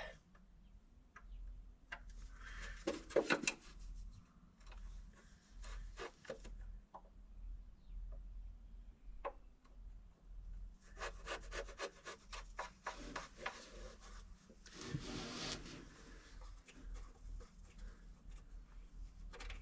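Intermittent scraping and rapid clicking of a hand tool on metal, in several spells of a second or two, as the last valve cover screw is worked loose and the cover freed.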